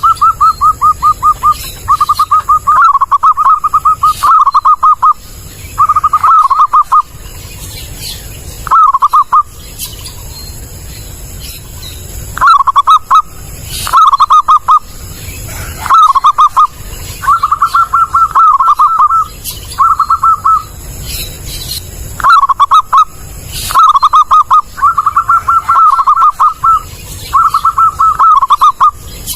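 Zebra dove (perkutut) cooing: loud phrases of rapid staccato coos, each lasting half a second to two seconds, repeated over and over with short pauses between.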